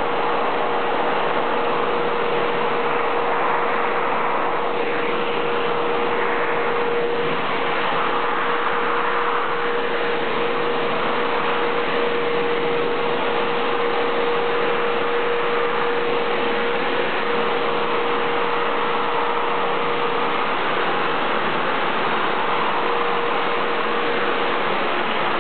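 Vacuum cleaner running steadily on a pet's coat: an even, loud rushing with a constant hum note through it.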